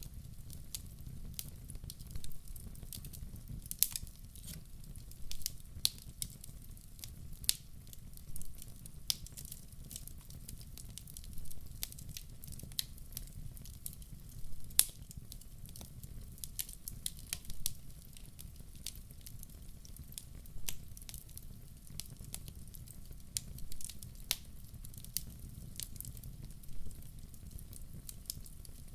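Wood fire burning in a fireplace: a steady low rumble with irregular sharp crackles and pops every second or so.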